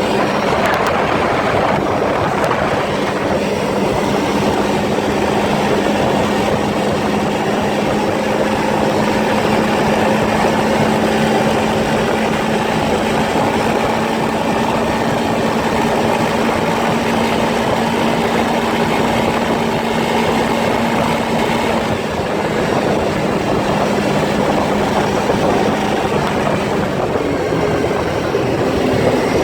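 ATV engine running under way with a steady note over rumble and rattle from the ride. The note changes about two-thirds of the way through, and again near the end.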